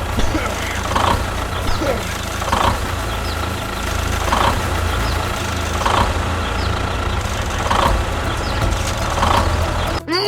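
Mini tractor's small engine running with a steady low rumble, with a short chirp-like sound about every one and a half seconds. The sound cuts off abruptly near the end.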